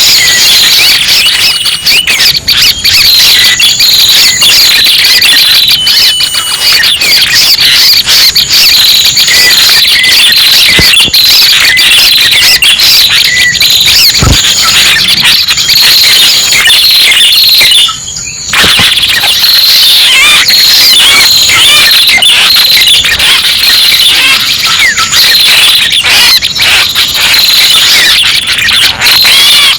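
Lure-call recording of the red-headed prenjak (prenjak pala merah) used for bird trapping: loud, dense, rapid high chirps and trills layered over each other, with a short break about eighteen seconds in.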